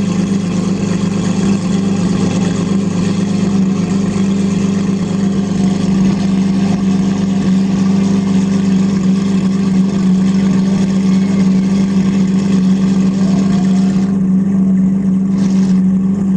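Lamborghini Murciélago LP640's 6.5-litre V12 idling steadily and loudly, a deep even drone with no revs.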